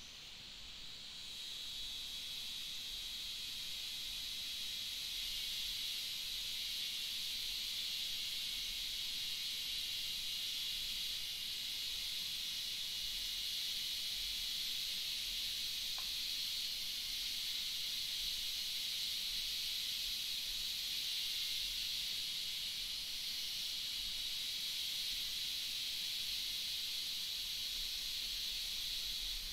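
Steady rain: an even, high hiss that swells up over the first two seconds and then holds steady.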